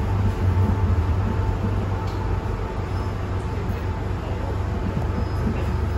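MTR M-train electric multiple unit running and slowing into a station, heard from inside the passenger car: a steady low rumble from the running gear with a faint thin whine, easing off a little as it comes to the platform.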